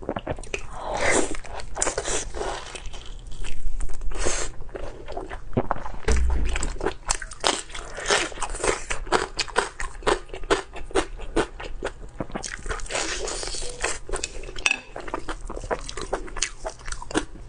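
Close-miked eating: chewing and biting with many quick wet clicks and smacks, and a low thump about six seconds in.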